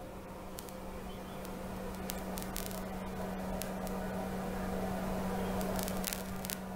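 Small camera drone's propellers humming steadily in flight, slowly growing louder and easing off near the end, with a few faint clicks.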